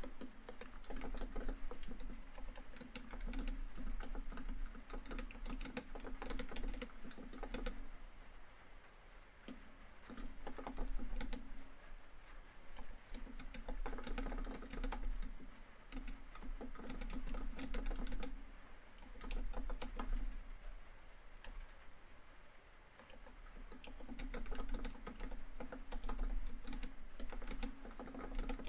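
Laptop keyboard typing in runs of quick keystrokes, broken by short pauses.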